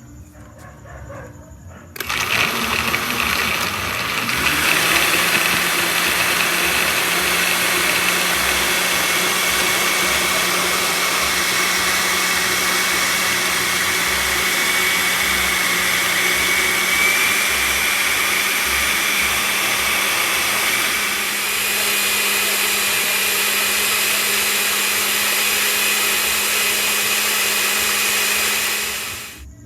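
Electric blender motor running for nearly half a minute. It starts suddenly about two seconds in and cuts off just before the end, and its pitch rises slightly partway through.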